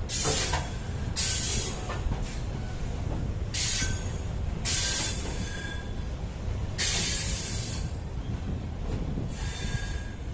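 Train wheels rolling slowly over the rails with a steady low rumble, the wheels screeching against the rail in repeated spells of about a second each, some with a thin squeal.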